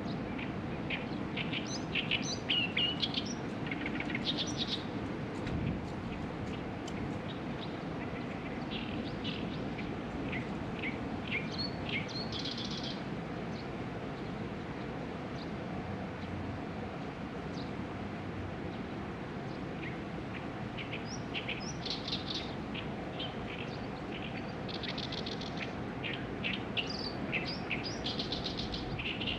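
Small birds chirping and singing in several bursts of quick high notes and short trills, over a steady low background hum.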